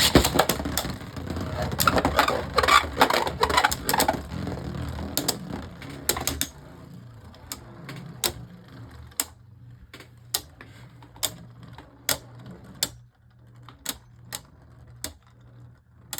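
Two Beyblade Burst spinning tops clashing in a plastic stadium: rapid, loud clattering for about six seconds, then separate sharp clicks of contact every half second to a second as they keep spinning.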